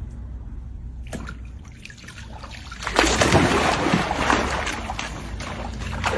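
Water splashing and sloshing, louder from about three seconds in, over a low steady hum.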